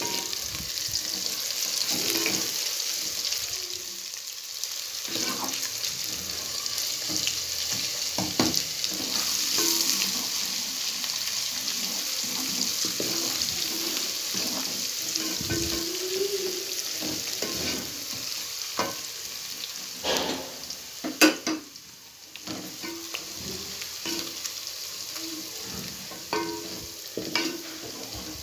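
Onions and ginger-garlic paste sizzling in hot mustard oil, stirred with a wooden spoon that scrapes and knocks against the pot. The sizzle is strongest in the first ten seconds or so. The sharpest spoon knocks come about twenty seconds in.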